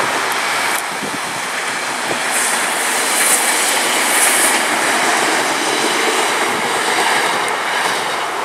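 Matangi electric multiple-unit commuter train passing close, a steady rushing of wheels on rail that is loudest about three to four seconds in.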